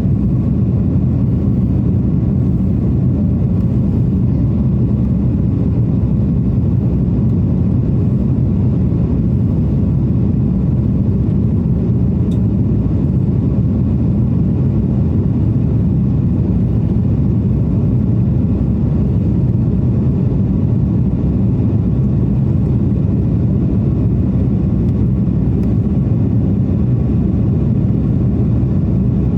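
Steady drone of an airliner cabin in flight: engine and airflow noise, a low, even rumble that does not change.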